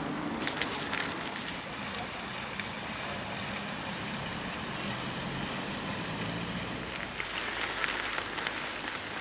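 Bicycle on the move: a steady rolling noise with a crackling crunch under it, heaviest about a second in and again near the end.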